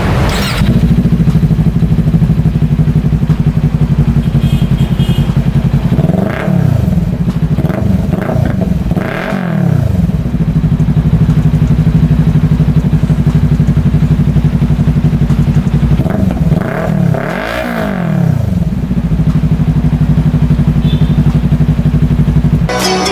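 Motorcycle engine breathing through an SC Project aftermarket muffler, idling with a steady pulsing exhaust note, then blipped up and down in quick throttle revs, a few about six seconds in and another cluster about sixteen seconds in, before settling back to idle.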